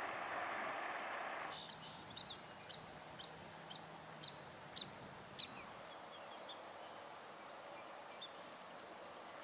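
Small songbird chirping: a scattered series of short, high, sharp chirps, one a quick downward sweep, that thin out after about four seconds. For the first second and a half a steady rushing noise sounds louder, then drops away.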